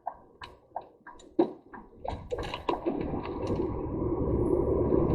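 Light clicks a few times a second, then from about two seconds in a rumble of lorry engine and road noise that swells and holds steady.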